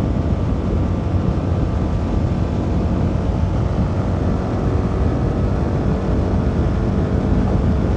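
CFMoto 300NK's single-cylinder engine running at a steady cruise while the motorcycle rides along, with an even rush of road and wind noise.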